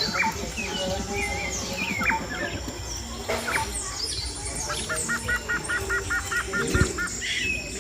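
Parrots calling: many short chirps and squawks, with a quick run of about a dozen repeated notes about five seconds in.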